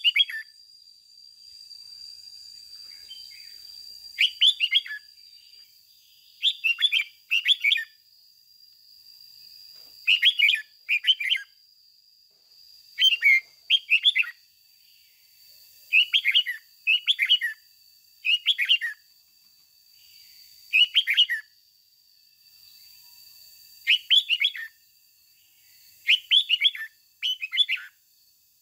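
Red-whiskered bulbul singing short phrases of a few quick notes, often two phrases back to back, repeated every two to three seconds. A faint steady high-pitched whine runs underneath.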